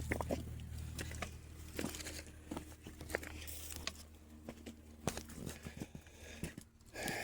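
Irregular scuffs and small clicks of footsteps on loose, rocky ground while climbing, over a low steady rumble.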